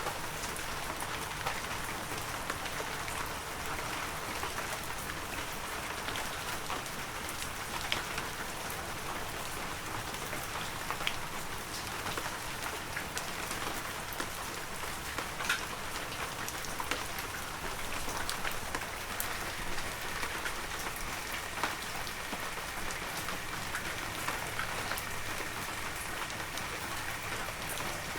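Heavy rain falling steadily: a dense, even hiss with many individual drops ticking sharply through it.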